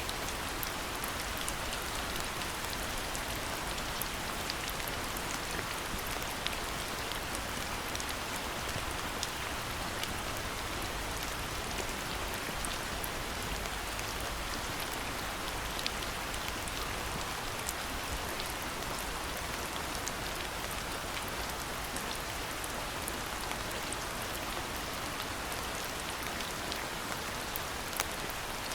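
Steady rain falling, with many single drops tapping sharply close by over the even hiss of the downpour.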